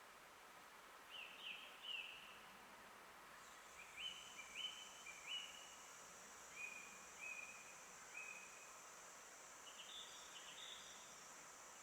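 A bird singing faintly in a forest: short chirped notes in little groups, each note a quick slide. A steady high hiss comes in a few seconds in and stays.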